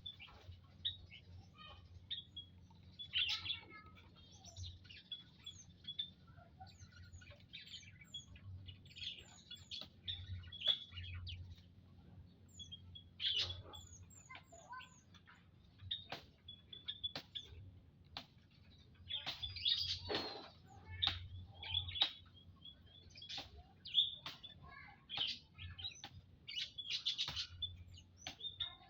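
A family of prenjak lumut birds chirping: many quick overlapping chirps and short high, falling calls, with a few sharp clicks among them.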